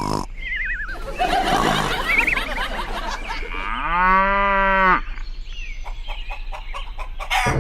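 A string of sound effects: wobbling whistle tones, then one long low call lasting about a second and a quarter, like an animal's call, followed by a run of quick clicks.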